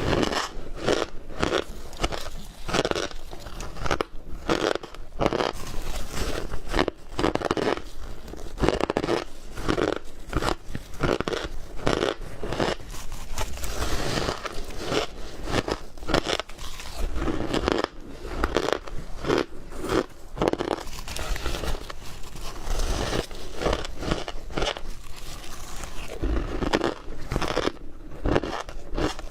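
Ice being bitten and chewed close to the microphone: a steady run of sharp crunches, one bite after another with short gaps.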